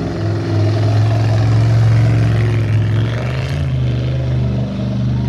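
Outlaw-class tough truck's engine running hard under load on the course, its pitch stepping up about three seconds in and then holding high.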